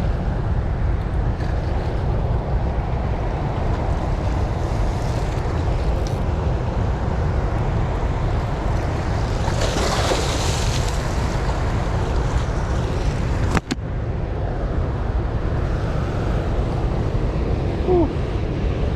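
Steady low roar of water rushing from the dam's open flood gates, with wind buffeting the microphone. A brief hiss about ten seconds in.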